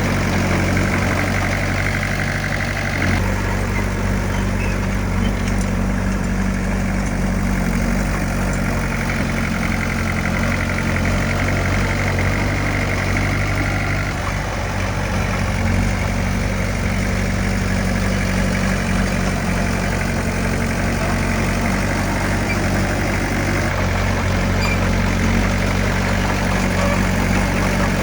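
Heavy diesel engine of earthmoving equipment running steadily, its note shifting slightly about three seconds in and again about halfway through.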